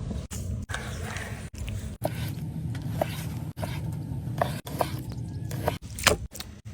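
A quick run of short food-preparation sounds: sharp knocks and clicks over a steady low rumble, broken by several abrupt cuts.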